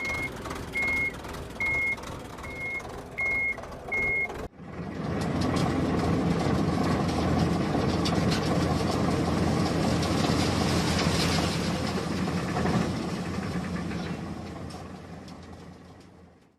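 A reversing alarm beeps six times at one high pitch, about one beep every 0.7 s, then cuts off suddenly about four and a half seconds in. A heavy vehicle engine runs in its place and slowly fades out near the end.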